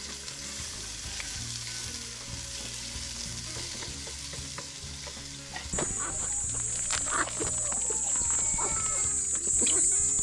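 Chicken pieces frying and sizzling in a pot as a wooden spoon stirs them. About halfway through a steady high-pitched whine sets in, with short bird calls over it.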